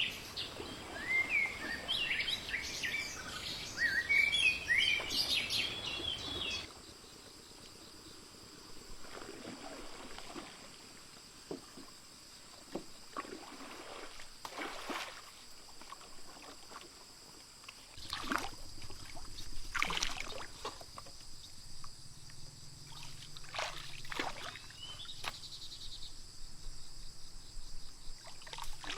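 Small birds chirping rapidly for about the first six seconds, then the sound cuts abruptly to a quieter scene: a faint steady high-pitched tone with scattered knocks and rustles.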